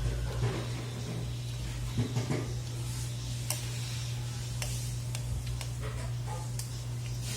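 A steady low hum with a few scattered light clicks and knocks.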